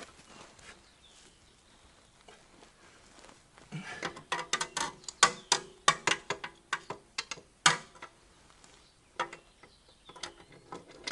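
A wrench being worked on a Harley-Davidson's rear axle nut: a quick, irregular run of sharp metallic clicks and clinks, several a second, for about four seconds starting a few seconds in, then a few more near the end.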